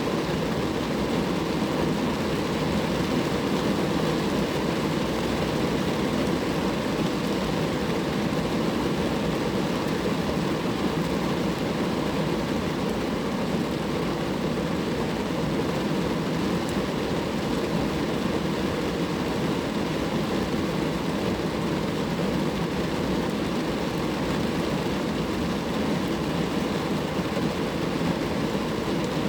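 Rain falling steadily on a car, an even rushing patter with no pauses or changes.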